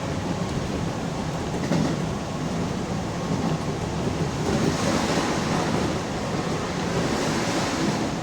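Keihan electric commuter train running between stations, heard inside the front car: steady rumble of wheels on rails with a hiss that swells twice, about halfway through and near the end.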